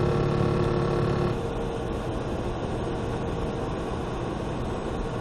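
Steady vehicle and road noise heard from inside a car. A steady tone with several pitches sounds over it for about the first second and a half, then stops.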